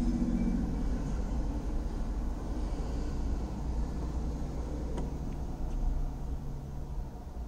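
A motor vehicle's engine running close by, cutting in suddenly and holding a deep, steady hum until near the end. One sharp tennis-ball hit off a racket about five seconds in.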